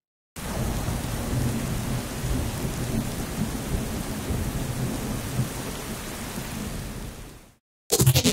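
Thunderstorm sound effect: a steady rush of heavy rain with a low rumble of thunder underneath, starting abruptly and fading out after about seven seconds. Just before the end a different effect begins, a quick run of sharp hits.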